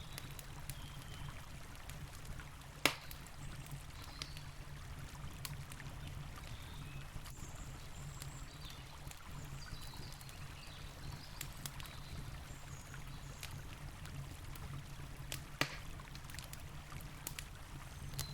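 Campfire crackling with scattered sharp pops, the loudest about three seconds in and another near the end, over the steady low rush of a flowing river.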